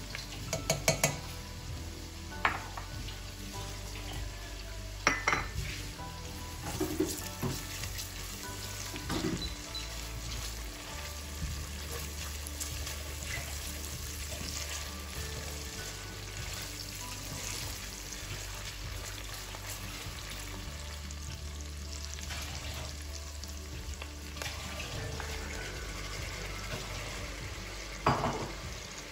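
Onions, garlic, chilies and ginger paste sizzling in hot fat in a stainless steel pot, with a wooden spatula scraping and knocking against the pot several times in the first ten seconds. Near the end there is a louder clatter as raw chicken pieces go into the pot.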